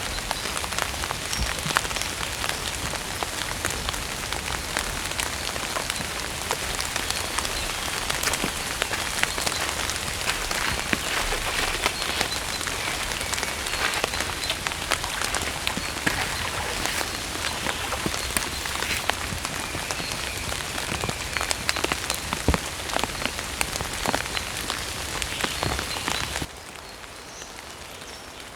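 Heavy rain falling, a dense hiss peppered with many sharp drop impacts. Near the end it cuts abruptly to a quieter rain.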